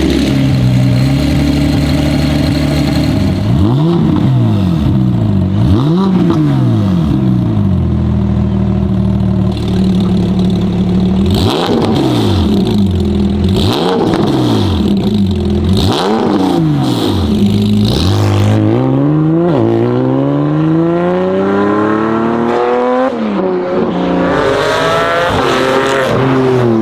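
Porsche 718 Spyder's flat-six engine breathing through a catless header, downpipe and valvetronic muffler exhaust. It idles, then is blipped in a series of short sharp revs that rise and fall back. In the second half it gives two longer pulls, its pitch climbing steadily, then falling near the end.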